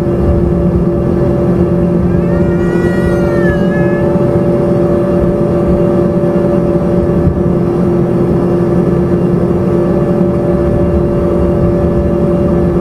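Embraer ERJ-145's rear-mounted Rolls-Royce AE 3007 turbofan engines running steadily with a droning hum, heard from inside the passenger cabin. A brief higher wavering whine rises and falls about two seconds in.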